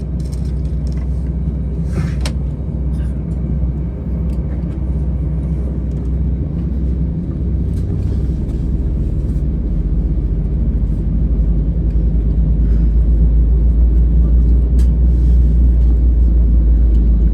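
Airbus A320-214 cabin noise before takeoff: the steady low rumble and hum of the CFM56 engines and airframe heard from inside the cabin, growing a little louder about two-thirds of the way through.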